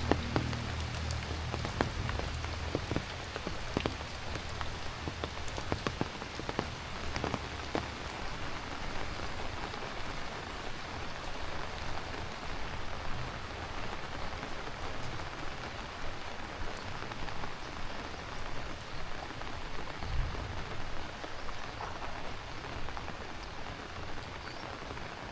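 Heavy rain falling steadily, with a dense patter of individual drops striking hard surfaces close by.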